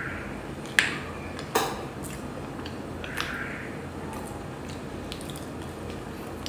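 Close-miked eating sounds: chewing soft chocolate-coated cake with wet, squishy mouth noises. Two sharp clicks come about a second and a second and a half in, and small smacks and clicks are scattered through the rest.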